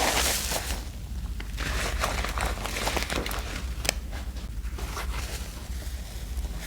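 Hands working a thick laundry-detergent soap paste: wet squishing and crackling, with a louder rush in the first second and a sharp click about four seconds in.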